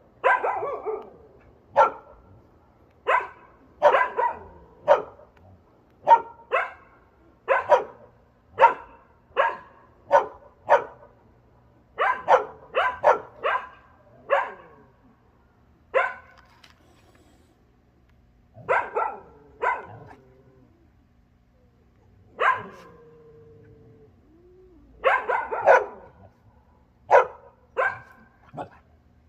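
A dog barking in short, sharp barks, often two to four in quick succession with pauses between, and one longer drawn-out whine about three-quarters of the way through.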